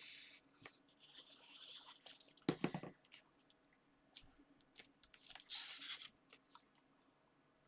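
Paper and card being handled on a craft table: rustling and light taps, with a louder knock about two and a half seconds in and another rustle near six seconds.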